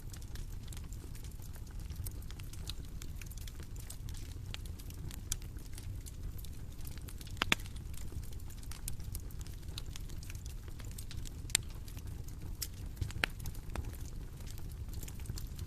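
Bonfire crackling: a steady low rumble of burning wood with scattered sharp pops and snaps, two of them louder, about halfway through and again about two-thirds through.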